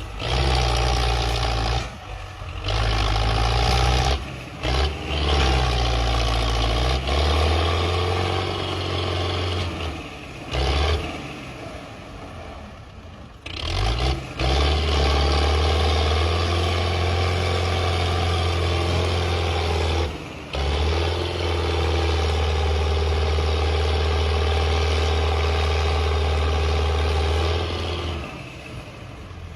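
Belarus tractor's diesel engine running loud and steady. Its level drops off briefly several times, with a longer lull about ten seconds in.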